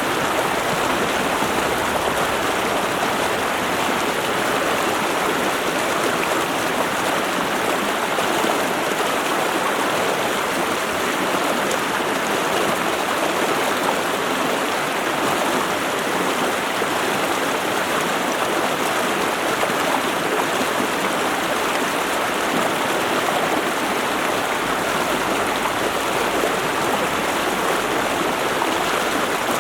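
A mountain stream running over rocks: a steady, even rush of water.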